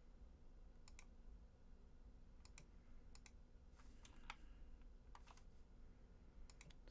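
Faint, scattered clicks of a computer mouse and keyboard, many in quick pairs, over a low steady hum.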